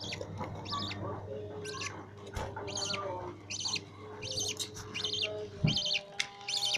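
Budgerigar nestlings giving rapid, raspy begging calls in short bursts, about one or two a second, as they are fed by a parent bird.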